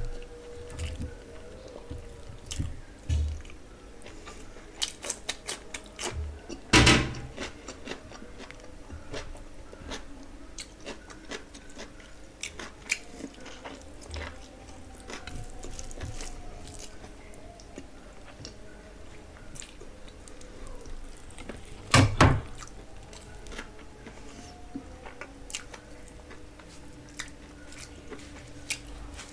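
Close-miked chewing and wet mouth sounds of a person eating rice, curry and chicken by hand, with many small clicks and smacks. Two louder, sharp clicks stand out, about 7 seconds in and again about 22 seconds in.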